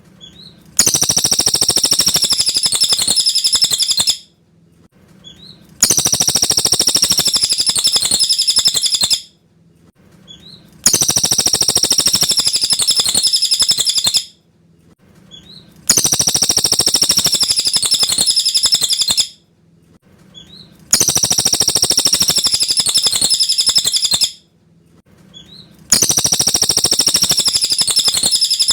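Cililin bird singing a high, rapid, chattering phrase about three seconds long, repeated identically about every five seconds with short pauses between: a looped song recording of the kind played as masteran to teach white-rumped shamas.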